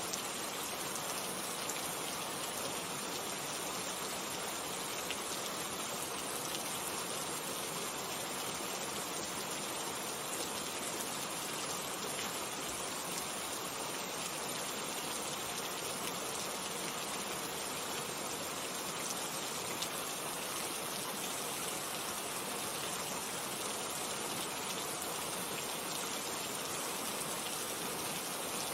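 Steady rainfall: an even, constant hiss of rain with a few individual drops ticking out of it.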